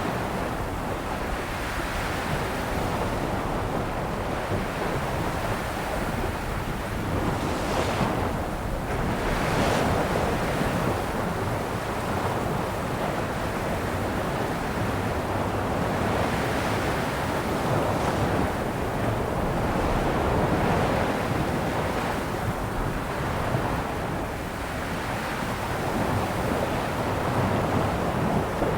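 Sea waves breaking and washing on the shore in a steady, continuous surf, swelling and easing every few seconds, with wind buffeting the microphone.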